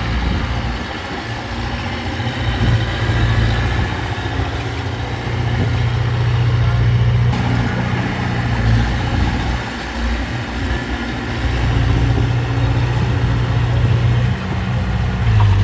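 Diesel engine of heavy earthmoving machinery (bulldozer or dump truck) running steadily with a deep hum, its level swelling and easing as it works.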